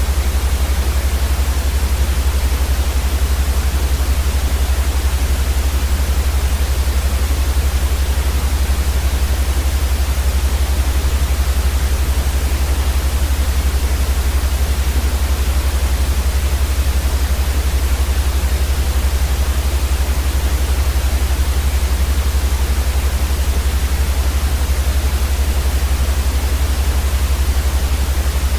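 Steady white noise played as a baby sleep aid: an even, unbroken hiss across the whole range over a strong low rumble, unchanging throughout.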